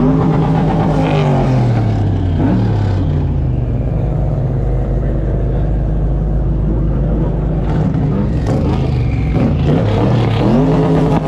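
Car engine revving, its pitch climbing and dropping several times (near the start, about two and a half seconds in, and twice near the end) over a steady low rumble.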